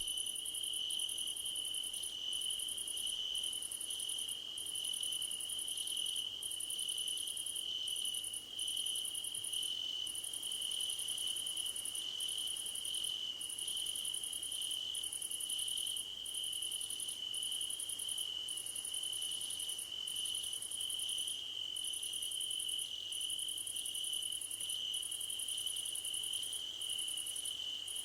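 A chorus of crickets chirping: one steady, unbroken trill at a middle pitch, with a much higher, shriller chirping over it that pulses on and off about once a second.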